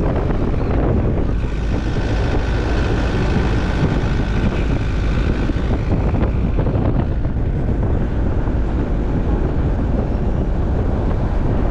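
Moving vehicle on the road: a steady low rumble of road and wind noise, with a higher whine that rises in about a second and a half and fades out around six seconds.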